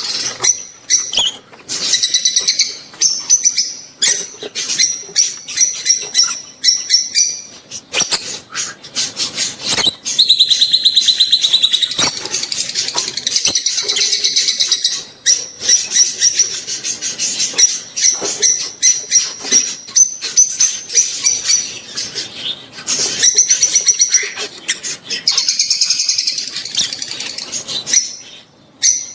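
Rosy-faced and Fischer's lovebirds chattering and chirping in quick high-pitched runs, their breeding calls. There is a long unbroken stretch of rapid chatter about ten seconds in.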